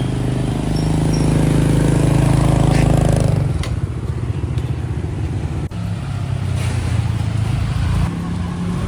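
Street traffic: a motorbike engine passes close, building to its loudest about three seconds in and then dropping away, with other engines running lower afterwards.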